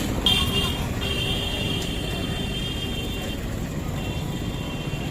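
Outdoor street and traffic noise, with a steady high-pitched tone from shortly after the start to about three seconds in.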